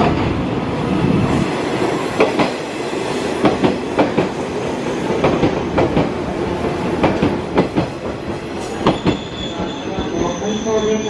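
A green JR West 113 series electric multiple unit rolls past along the platform, its wheels clacking over rail joints, often two clacks close together. In the last few seconds a high, steady wheel squeal sets in.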